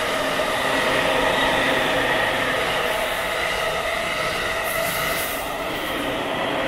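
Ueno-Tokyo Line commuter electric train with double-deck cars running past along the platform: a steady rumble of wheels on rail with several steady whining tones over it, easing off slightly near the end.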